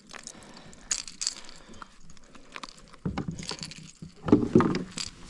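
Clicks, light rattles and rustling from handling a small just-caught fish in a kayak, with two louder bursts of knocks about three and four and a half seconds in.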